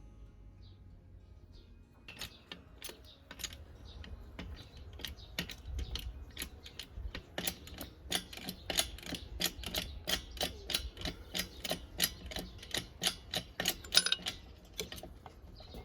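A run of sharp mechanical clicks, sparse at first and then about three or four a second from about seven seconds in, as a small hand-worked mechanism is operated.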